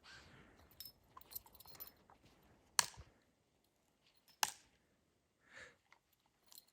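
A few sharp knocks, the two loudest about a second and a half apart, with faint clicks and rustling between them.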